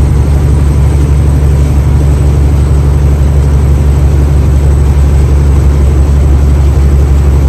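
A semi-truck's heavy diesel engine running with a steady low drone and no change in pitch.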